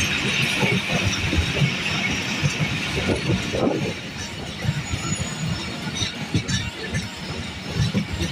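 Pakistan Railways passenger train running along the track: many irregular low knocks and rattles of the wheels and carriage over a steady hiss that eases about halfway through.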